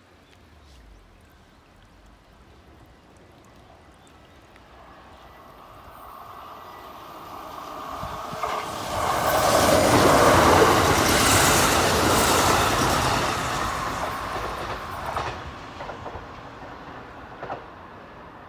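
Kintetsu 12200 series four-car limited express electric train passing by: its rumble grows as it approaches, is loudest about ten seconds in as the cars go past, then fades. A few sharp wheel clicks come as the last cars pass.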